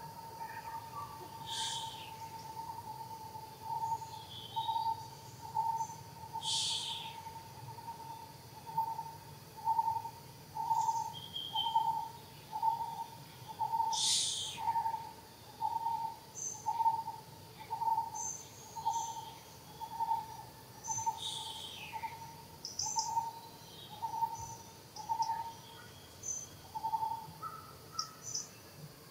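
A bird repeating one low hooting note at a steady pitch, a little faster than once a second, stopping near the end. Sharper, higher calls from other birds break in now and then.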